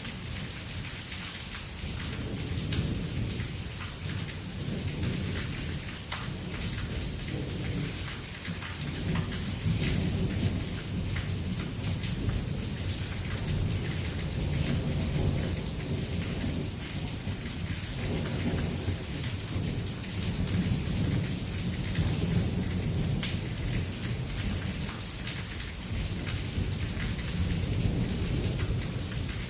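Heavy thunderstorm: rain pouring steadily with a dense hiss, under low rolling thunder that swells and fades.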